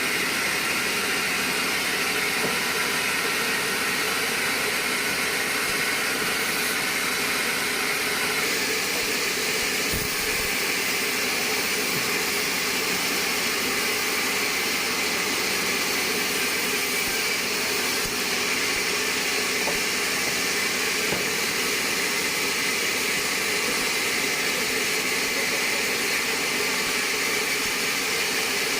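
Band sawmill running with a steady, even rushing noise and no breaks or knocks.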